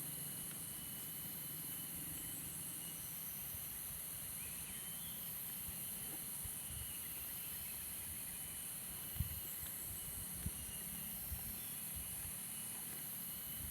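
Steady high-pitched hiss of outdoor campsite ambience, with a few soft knocks about nine to eleven seconds in.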